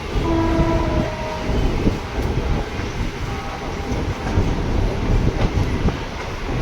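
Mumbai local train running, a steady rumble of wheels on track. A short pitched tone sounds for about a second near the start.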